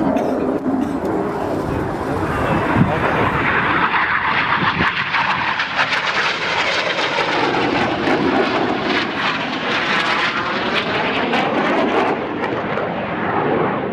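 BAE Hawk T1 jets with Adour turbofan engines flying low and fast past the crowd: loud, steady jet noise whose tone sweeps up and down as they go by.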